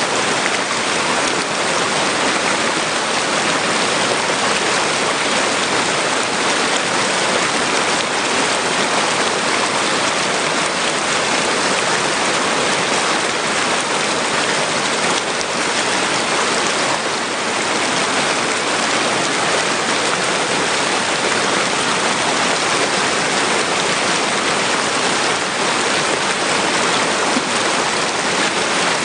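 Water rushing and splashing against rocks, a steady even hiss of moving water with no let-up.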